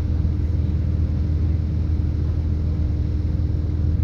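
Interior sound of a British Rail Class 170 Turbostar diesel multiple unit under way: a steady low rumble of its MTU turbo-diesel engine and running gear, with a constant low hum.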